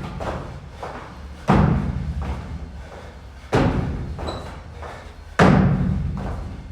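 Three heavy thuds about two seconds apart, each ringing on and dying away: workout reps striking the gym floor.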